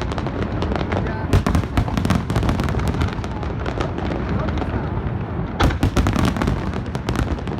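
Large aerial fireworks display: a continuous barrage of rapid booms and crackling bursts, thickest about a second in and again near six seconds in.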